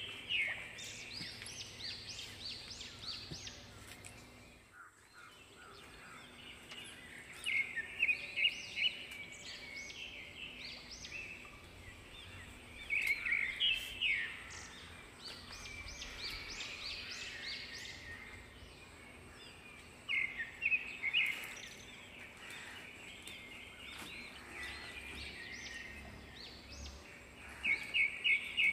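A bird calling in five short bursts of rapid, high-pitched notes, spaced several seconds apart, over a steady outdoor background hiss.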